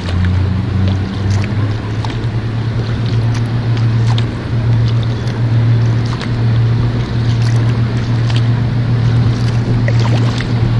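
A boat engine drones steadily at a low pitch, shifting slightly about a second in and then holding, over water noise with small scattered splashes.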